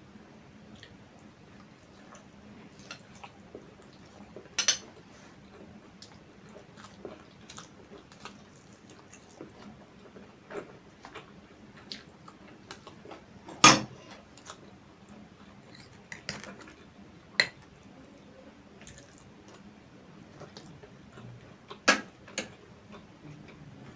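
Eating at a plate: scattered sharp clinks and knocks of dishes, with soft chewing and squishy mouth sounds in between. The loudest clink comes about 14 s in, with others near 5, 17 and 22 s.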